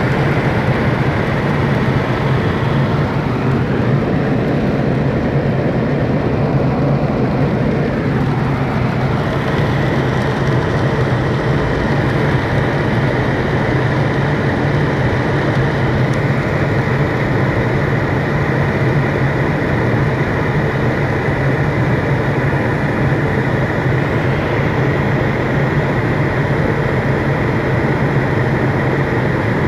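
Heavy rain falling, a loud steady rush of noise with a steady low hum underneath.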